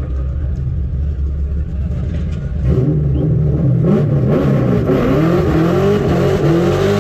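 Corvette's V8 idling with a low rumble, then about three seconds in it is revved hard and the car pulls away, the engine pitch climbing and dropping several times. The reactor calls it a light tyre warm-up.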